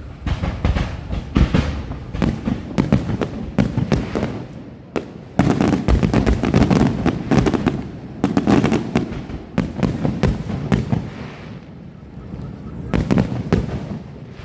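Aerial fireworks shells bursting in rapid, overlapping volleys of booms and cracks, densest through the middle, easing briefly and then picking up again near the end.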